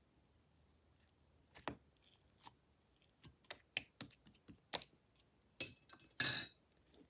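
Slime being handled: scattered small clicks and pops, then two louder crackling squishes about five and a half and six seconds in, the second the loudest.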